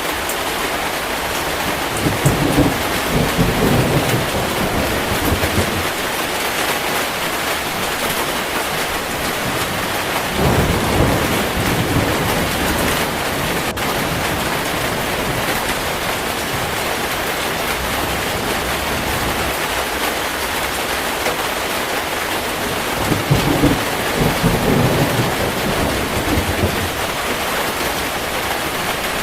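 Heavy rain falling steadily, with low rolls of thunder rumbling three times: about two seconds in, around ten seconds in, and near the end.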